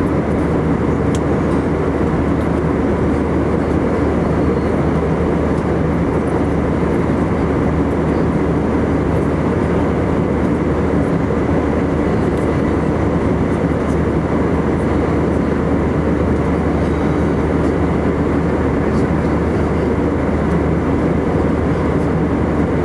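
Steady in-flight cabin roar of an Airbus A319-115, with its CFM56 turbofan engines and airflow heard from a window seat by the wing. It holds an even level throughout.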